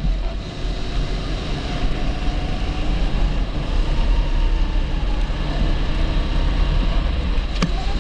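270cc four-stroke kart engine running steadily on track, its note rising and falling a little, with a heavy low rumble.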